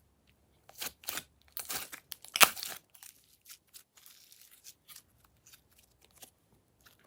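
Crinkling, tearing and crackling handling noises in a run of short bursts, the loudest about two and a half seconds in, followed by fainter scattered ticks.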